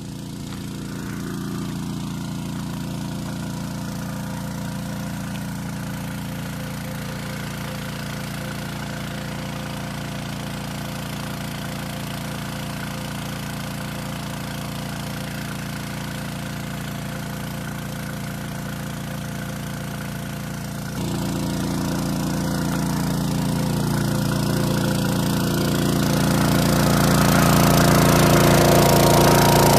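Small petrol engine driving a portable water pump, running steadily. It gets abruptly louder about two-thirds of the way in and grows louder still near the end.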